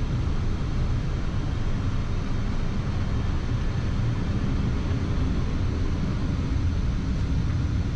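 Steady rumbling flight-deck noise of a Boeing 787-9 in its initial climb just after takeoff: airflow and engine noise, strongest in the low rumble.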